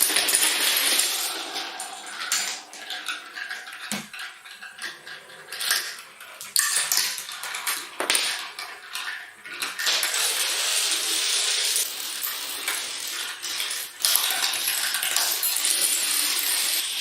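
Dominoes clattering: a dense run of sharp clicks as small hard tiles knock against each other and fall.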